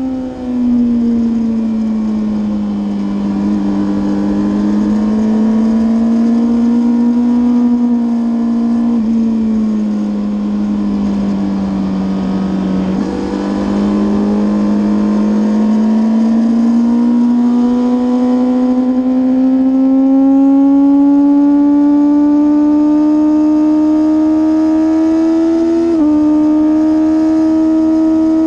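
Racing sportbike engine running at moderate, fairly steady revs. The pitch drops early on, stays low for about ten seconds, then climbs slowly, with a sudden small step in pitch near the end.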